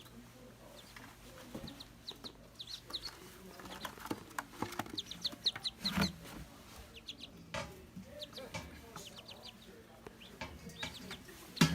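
Newly hatched Muscovy ducklings peeping: short, high peeps in quick runs. A knock about six seconds in, from handling.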